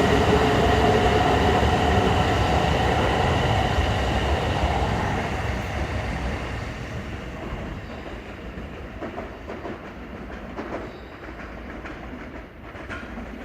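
Tohoku Shinkansen train pulling out of a station: the whine of its traction motors over the rush and rumble of its running gear, fading steadily as it draws away, with a few faint clicks of wheels over rail joints near the end.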